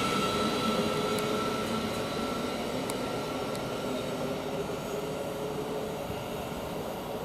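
Thameslink Class 700 electric multiple unit pulling out of the station. Its running noise, with a steady whine, fades as it moves away.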